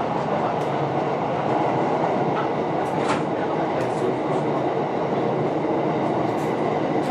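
Running noise heard inside the cabin of a JR West 227 series electric train: a steady rolling rumble of wheels on rail with a few faint clicks from the track.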